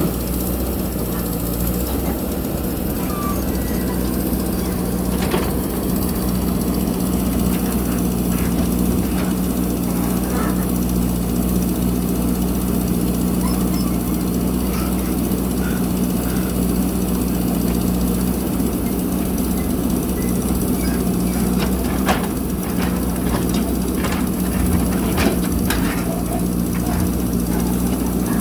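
JCB backhoe loader's diesel engine running steadily under load while it works, with scattered knocks, several close together near the end.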